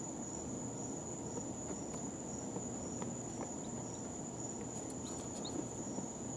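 Baby chicks in a brooder: a few soft, brief peeps and faint scratching near the end, over a steady high whine and a low hum.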